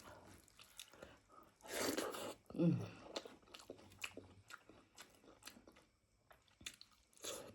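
A person chewing and biting meat close to the microphone: many small wet mouth clicks and crunches, with a few louder bites about two seconds in and near the end, and a brief falling hum about two and a half seconds in.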